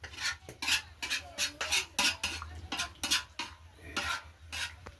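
A spoon scraping and stirring in a cooking pot of rice, in quick repeated strokes, roughly two or three a second.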